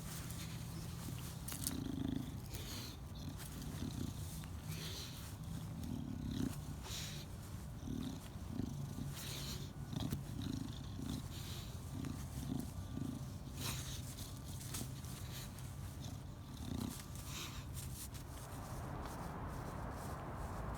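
English bulldog snorting and grunting in many short, irregular pig-like bursts through its pushed-in nose.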